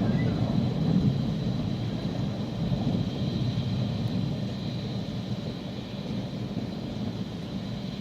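Rolling thunder, a low rumble that slowly dies away.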